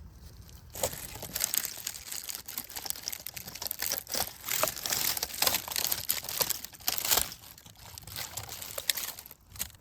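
Dry leaves and twigs rustling and crackling, a busy run of small snaps.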